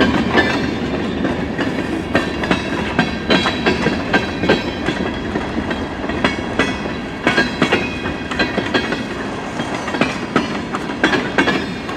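CN freight train rolling past, its car wheels clicking and clacking over the rail joints in an uneven run of sharp knocks over a steady rumble.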